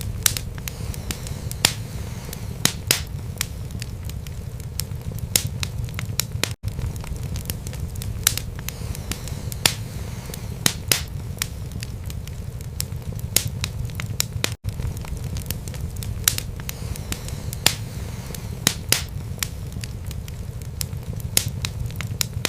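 Wood fire burning in a fireplace: a steady low rumble of flames under frequent, irregular sharp crackles and pops of the burning wood. The sound cuts out for an instant twice.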